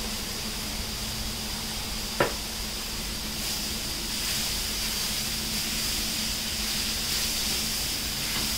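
Onion and tomato masala sizzling in oil in a pan, the sizzle growing a little from about three and a half seconds in as it is stirred with a wooden spoon. A steady low hum runs underneath, and there is a single sharp clack about two seconds in.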